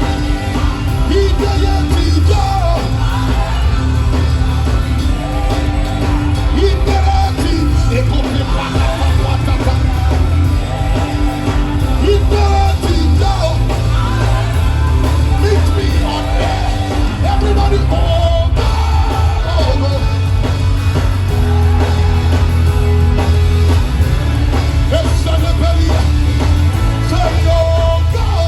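Live gospel worship music: a band with a strong, steady bass under voices singing.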